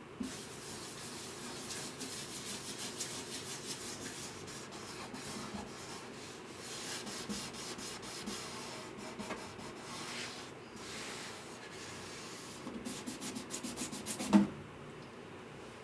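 Hand sanding on guitar wood: repeated rubbing strokes that quicken near the end, then stop with a single sharp knock.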